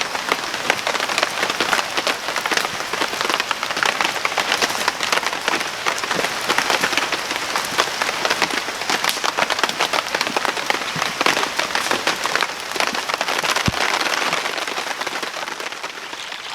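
Rain falling with a steady, dense patter of fine drop ticks.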